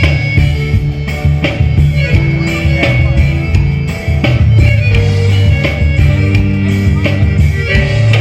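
Forró band playing an instrumental passage with a steady beat and held notes, without singing.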